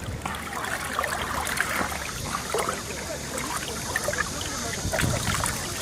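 Fast mountain stream rushing and babbling over rocks in a steady, continuous wash.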